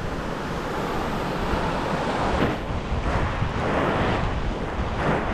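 Waves washing onto the shore, the rush swelling several times, with wind blowing across the microphone.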